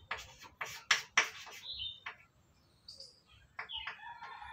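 Pen strokes scratching across the writing surface for about a second, then a short bird chirp; near the end a rooster starts a long crow.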